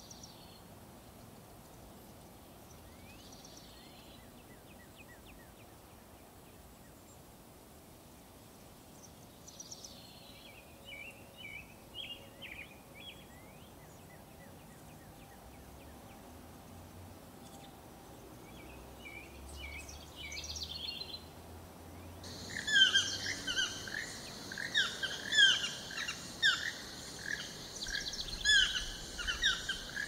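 Birds calling in forest ambience: scattered faint chirps at first, then, about two-thirds of the way in, a quick, loud series of sharp repeated chirps.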